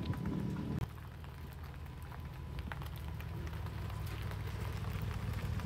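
Mercedes-Benz SLR Stirling Moss's supercharged V8 running at low speed as the car rolls slowly, a low rumble with scattered faint clicks. The rumble is fuller for the first second, then drops suddenly to a quieter, deeper level.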